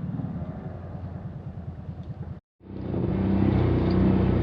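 Off-road vehicle engine running under load. About halfway through the sound cuts out for a moment, then comes back louder with a stronger, steadier drone.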